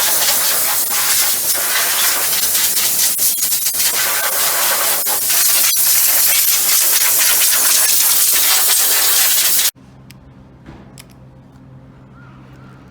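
A high-pressure jet hissing steadily and loudly against a removed truck engine. About ten seconds in it cuts off abruptly, leaving a quieter low steady hum.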